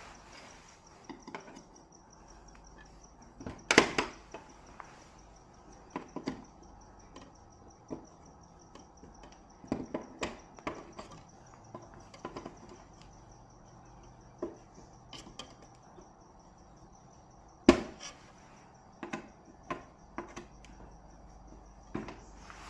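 Irregular clicks and knocks of things being handled, the two sharpest about 4 and 18 seconds in. A steady, high, pulsing insect trill runs underneath.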